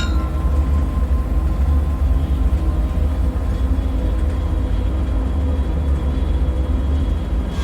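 Steady deep rumbling drone with a faint constant hum above it, the low bed of a dark bunker ambience soundscape, with a brief falling whistle right at the start.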